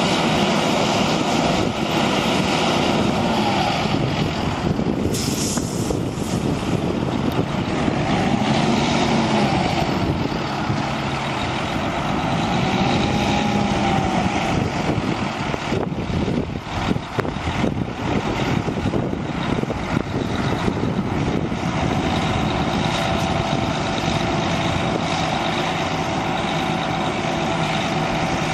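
1997 International 2674 truck's diesel engine running steadily, with a fainter whine that rises and falls a few times and settles into a steady tone about three-quarters of the way through.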